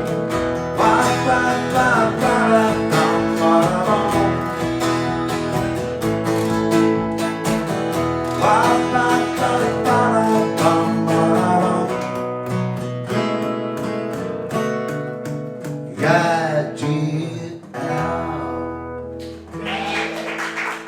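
Acoustic guitar strummed in a steady beat, with a bass line underneath and a melody line over it: an instrumental passage of a pop song.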